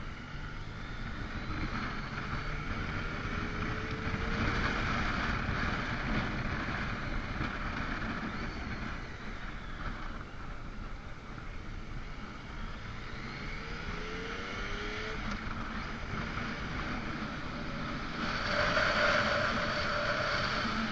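Motorcycle engine running under way over a steady rush of wind and road noise. Its pitch rises through the revs twice, about a second in and again about twelve seconds in, and it grows louder near the end.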